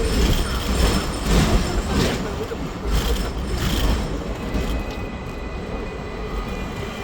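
Hong Kong double-decker tram running along its rails, wheels rumbling and rattling. The rattle is busier in the first few seconds, and a faint thin whine comes in about five seconds in.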